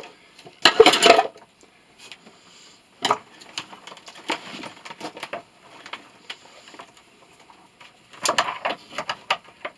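Irregular metal knocks and clatter from hand tools working on a motor being taken apart: a loud flurry of clanks about a second in, a single sharp knock around three seconds, and another cluster of clanks near the end.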